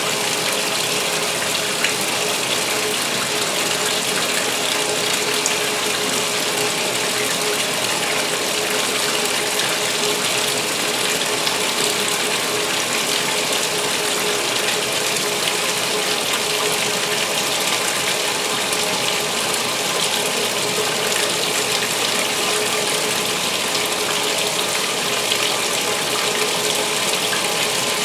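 2016 Speed Queen agitator washer filling its tub with water for the main wash: a steady rush of water with a faint steady hum.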